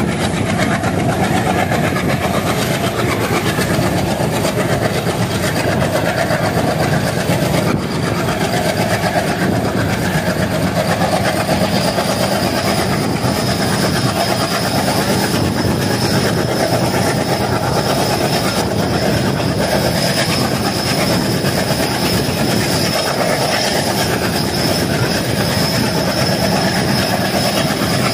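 Passenger express train hauled by an ALCO WDM-3D diesel locomotive, running at speed and heard from an open coach doorway. The rush of wheels on rail is loud and steady, with no break.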